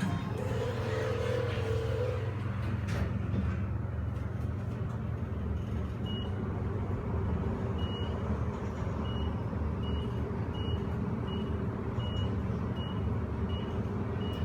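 The car of a Dover traction elevator modernized by Schindler, running fast on its upward trip with a steady low hum and rumble. From about six seconds in, short high electronic beeps repeat less than a second apart.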